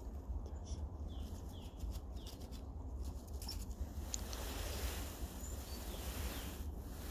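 Eurasian red squirrel giving a few short, high, falling squeaks, with faint clicks in between, over a low steady rumble. The squeaking is a territorial warning aimed at other squirrels nearby.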